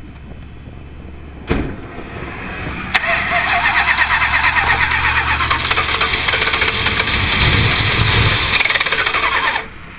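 1978 Chrysler Cordoba's V8 being cranked on the starter: a short knock about a second and a half in, then about six seconds of loud cranking with a fast rhythmic pulsing that stops suddenly. This is a hard start in which the engine turns over but does not catch, though it nearly fires.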